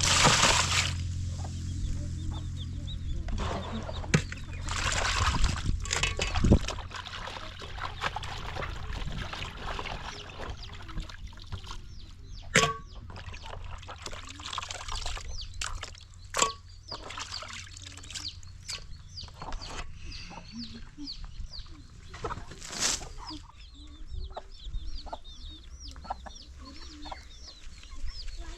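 Chickens clucking, with sharp knocks and rustling handling noises now and then, loudest at the very start.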